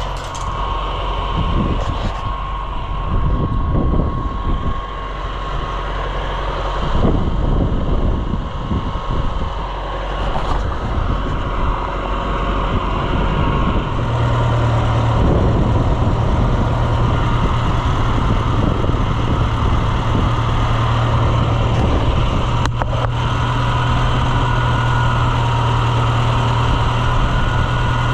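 A motor vehicle's engine running, changing in the first half and then settling into a steady idle about halfway through.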